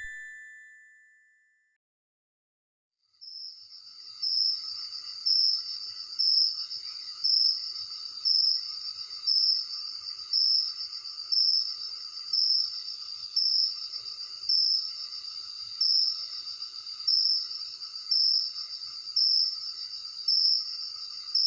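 Crickets calling at night: a steady, high-pitched trill with a louder chirp about once a second, starting about three seconds in. Before that, a chime-like tone fades out and there is a moment of silence.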